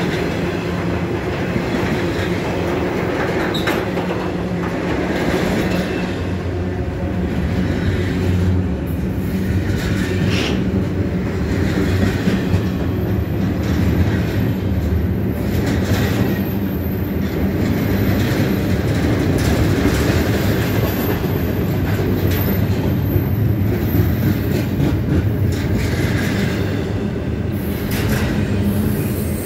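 Double-stack intermodal freight cars rolling past at speed: a steady rumble of steel wheels on rail with repeated clicks as the wheels cross rail joints, and a thin, faint high wheel squeal through the middle stretch.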